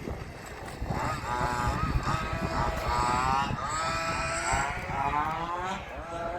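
Small two-stroke petrol engines of 1/5-scale RC cars revving up and down repeatedly as they are driven, with rising, buzzing whines that climb and fall away several times, over a low rumble of wind on the microphone.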